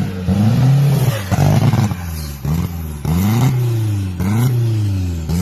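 Turbocharged Chevette engine in a go-kart, revving up and dropping back about five times in quick succession.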